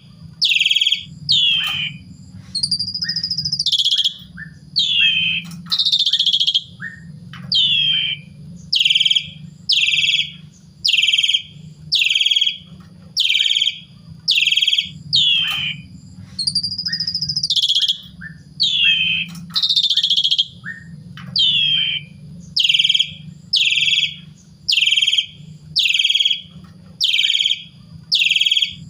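Pied starling (jalak suren) singing continuously and loudly, with harsh calls repeated about once a second and a few longer drawn-out notes among them. A low steady hum runs underneath.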